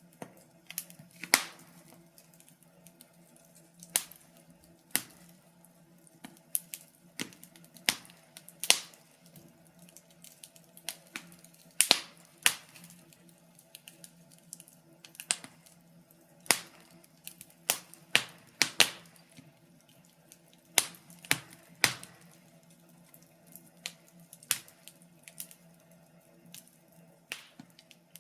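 Wood fire crackling: irregular sharp pops and snaps, a few each second, some louder, over a faint steady low hum.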